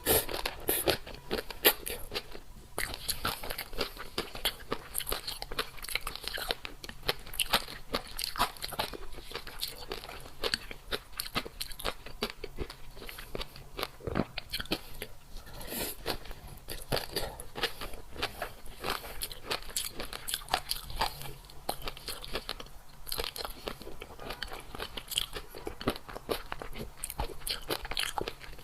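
A person chewing crunchy food close to the microphone: dense, irregular crisp crunches and bites with a few brief pauses.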